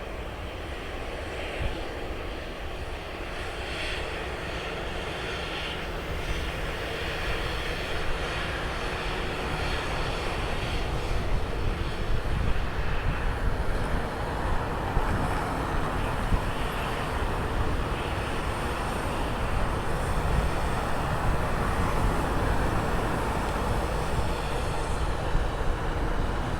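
Jet airliner engines at takeoff power, a dense rumble that grows gradually louder as the plane rolls down the runway.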